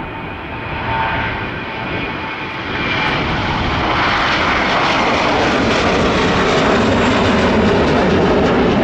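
Airliner's engines getting louder as the plane passes close by, rising to a loud, steady rushing noise about three seconds in.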